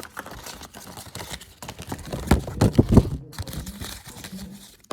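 Crinkling and rustling of paper packaging being handled and opened, with a cluster of loud knocks a little past the middle.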